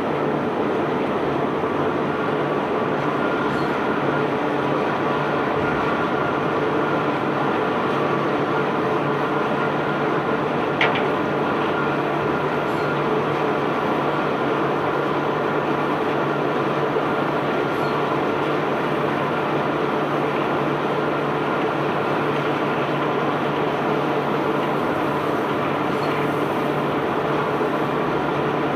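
Self-unloading barge's unloading machinery running steadily with a constant low hum and a dense rolling rattle, as cobblestone cargo is discharged. A single sharp clink stands out about eleven seconds in.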